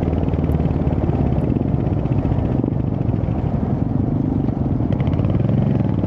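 Royal Enfield Hunter 350's single-cylinder engine running steadily under way, heard as a fast, even train of exhaust pulses from the bike itself.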